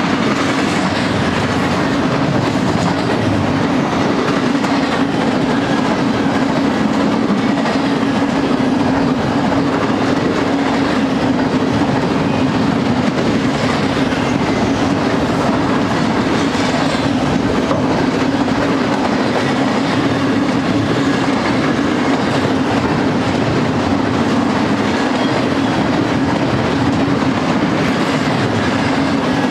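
BNSF double-stack container train's well cars rolling past steadily, their steel wheels running on the rails.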